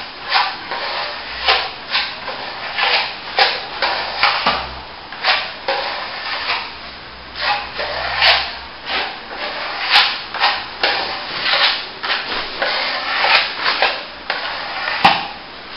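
A steel plastering trowel scraping over a wet top coat of plaster in repeated strokes, about one or two a second, as the setting plaster is polished off.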